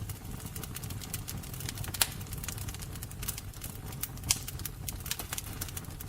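Fire crackling: dense, irregular sharp snaps over a low steady rumble, with two louder pops, about two seconds in and a little after four seconds.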